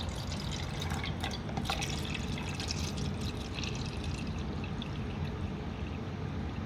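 Vinegar being poured into a cup, a splashing trickle for the first three or four seconds, over a steady low background rumble.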